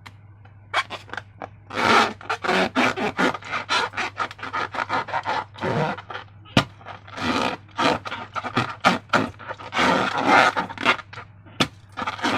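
Slime being squeezed and worked in and around a transparent rubber balloon: an irregular run of wet squelching and rubbing noises in many short bursts.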